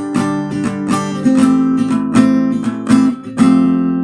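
Acoustic guitar strumming chords between sung lines of a song, the last chord near the end left ringing.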